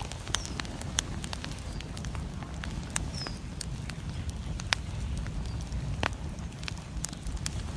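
Wood fire crackling in a fireplace, with scattered sharp pops over a low steady rumble.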